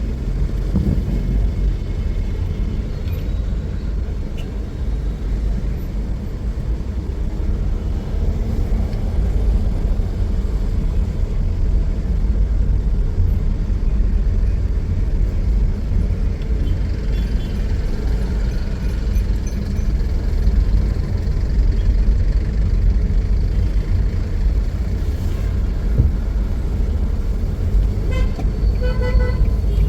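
City traffic with a steady low rumble of vehicles, and car horns honking, several short honks near the end.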